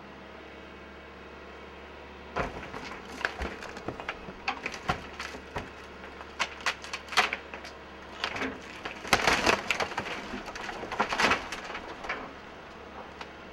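Wooden demolition debris cracking and splintering as an excavator crushes it: a long run of irregular crunches and sharp cracks, heaviest towards the end, over a steady low hum.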